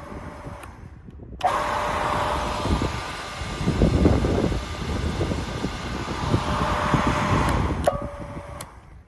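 Felder F38 three-roller power feeder running with a steady whine. About a second and a half in, a louder rushing noise joins it as the feeder drives a workpiece through, lasting about six seconds before the whine returns. The sound drops out briefly twice, at edits.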